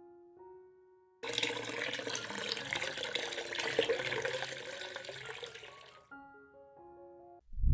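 Water running and splashing for about five seconds, starting and stopping abruptly and fading a little toward the end, with soft piano-like music notes before and after it.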